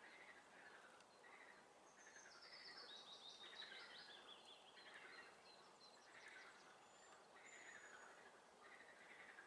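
Faint songbird chorus: a call that falls in pitch repeats about every three-quarters of a second, a run of higher stepped notes comes in about two seconds in, and thin high whistles sound near the end.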